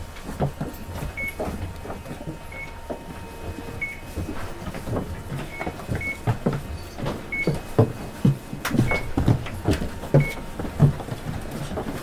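Isuzu Erga city bus's inline-six diesel idling at a stop, heard from the cabin: a steady low hum with interior knocks and rattles. A short high beep sounds about every second or so.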